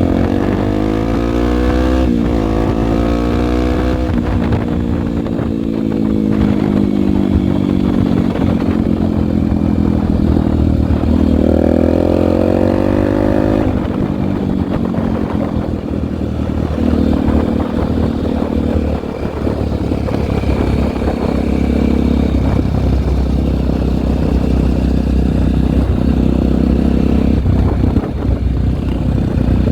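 Honda single-cylinder four-stroke trail motorcycle engine under way while ridden, its pitch climbing and dropping through the gears in the first few seconds and again about halfway, then holding steadier.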